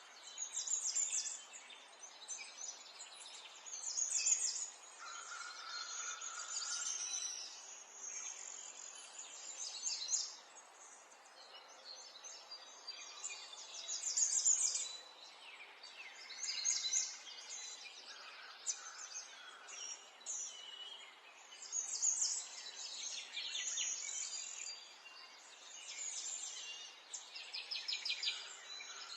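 Small songbirds chirping and twittering, several at once, in bursts of quick high chirps every second or two over a faint steady background hiss.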